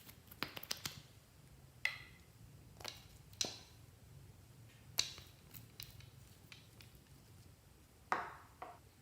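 Clear slime being worked by hand, giving faint, irregular sharp clicks and pops, some in quick clusters, with gaps of a second or more between them.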